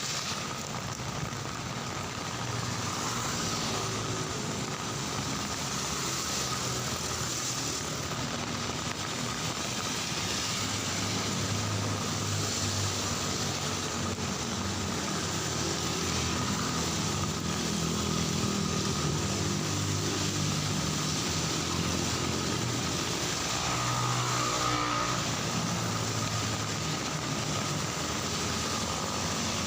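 Steady rain with motor traffic, cars and motorcycles, running along a wet street. One vehicle passes close and louder late on.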